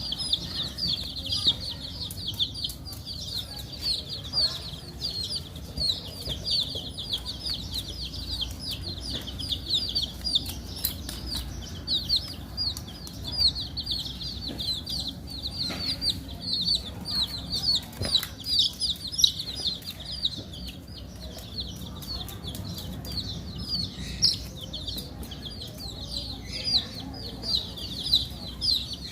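A brood of baby chicks peeping nonstop: many short, high chirps overlapping several times a second, with scattered light taps.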